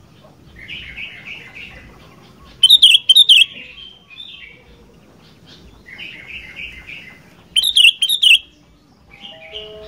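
Sooty-headed bulbul singing: a bubbly phrase of four or five quick notes, then a loud, sharp burst of chattering calls. The same phrase and burst come again about five seconds later.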